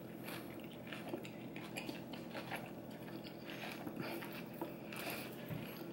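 Someone biting into and chewing a crunchy lettuce-leaf taco: a run of irregular, crisp crunches.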